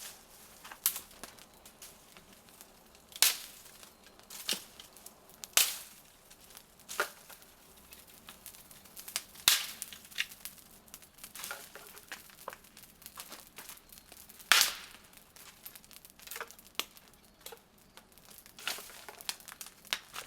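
Dry wood cracking and snapping at a campfire: sharp single cracks at irregular intervals, a few seconds apart, with fainter snaps in between.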